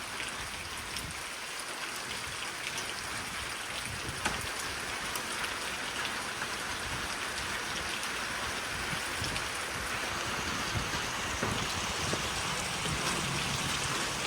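Steady rain falling, with scattered drops pattering on surfaces, getting slightly louder toward the end.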